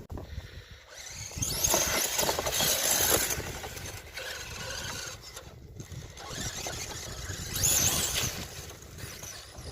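The 3660kv brushless motor of an RC mud truck on a 3S battery whining as it is throttled up in two bursts, about two seconds in and again near eight seconds, with a rising and falling pitch.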